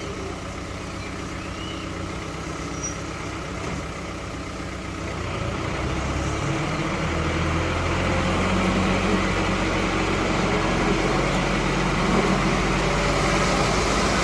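Heavy diesel engine running steadily, then getting louder and rising in pitch about six seconds in as it is revved up under load.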